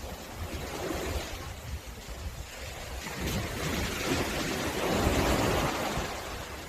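Sea waves breaking and washing up on a beach. One wave's rush swells to a peak about five seconds in and then fades, over a low rumble of wind on the microphone.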